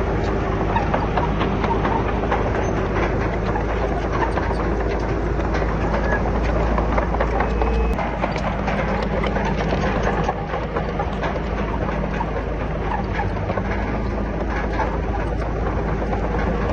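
Crawler bulldozer working: its diesel engine running steadily with a constant clank and rattle from the steel tracks and the rock and soil being moved.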